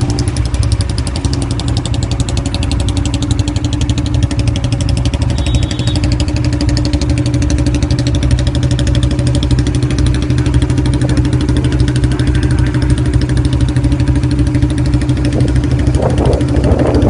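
Royal Enfield Classic 350's single-cylinder engine running steadily at idle, a loud, even exhaust beat.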